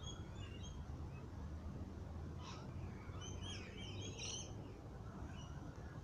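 Birds chirping and trilling in short high calls, sparse at first and bunched together about halfway through, over a low steady rumble.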